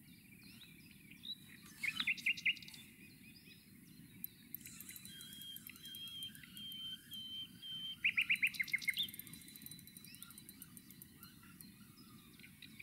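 Wild birds singing and chirping. A quick run of about five sharp notes comes about two seconds in and again about eight seconds in, with a long steady whistle between them, over a low steady background noise.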